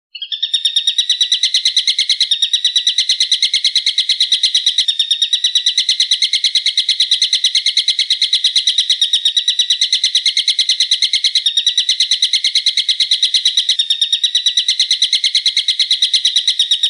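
A recorded bird call made of sharp, high, rapidly repeated notes, about ten a second, held for some sixteen seconds without a break. It starts and stops abruptly, as a loop from a masteran track used to train songbirds.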